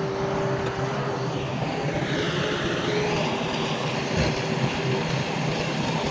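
Heavy diesel earthmoving machinery running steadily, with a high whine that dips and rises in pitch about two seconds in.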